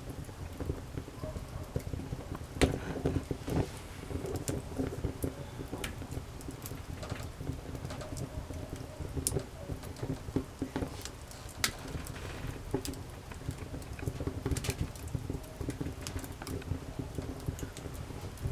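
Wood campfire crackling: irregular sharp pops and snaps over a low steady rumble, with the loudest pop about three seconds in.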